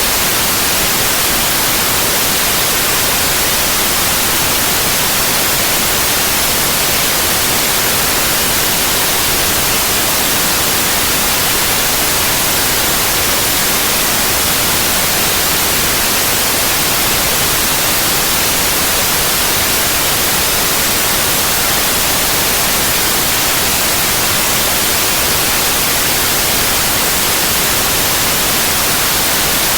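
Synthetic white noise: a loud, steady, even hiss across the whole range of pitch, brightest at the top, with no change or interruption.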